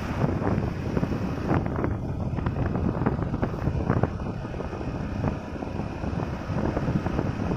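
Hero HF Deluxe motorcycle being ridden, its small single-cylinder engine running under heavy wind buffeting on the microphone.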